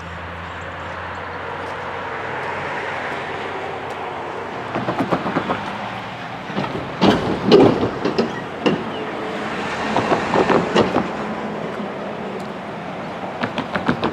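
Intermodal container train rolling past with a steady rumble. Every few seconds comes a quick cluster of clicking clacks as wheel sets run over rail joints, the loudest about halfway through.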